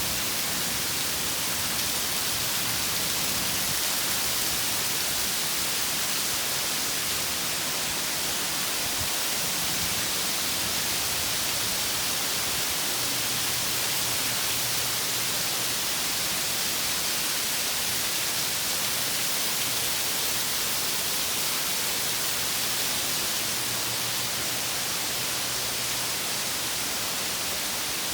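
Heavy rain pouring down steadily, a dense, even hiss with no thunder.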